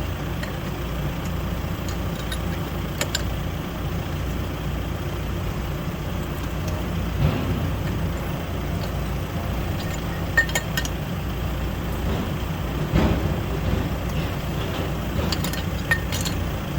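Used Daewoo bus diesel engine running at a steady idle, with a few light metallic clinks.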